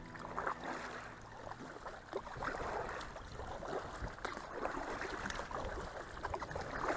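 Kayak paddle strokes splashing in river water, irregular, every second or so. Background music fades out about a second and a half in.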